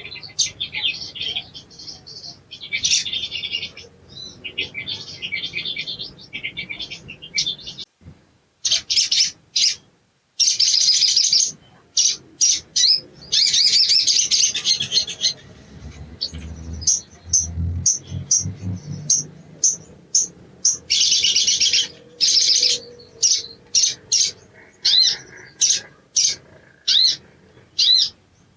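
Little spiderhunter calling: runs of rapid, high chattering notes a second or more long, broken up by short, sharp single chips repeated in quick series.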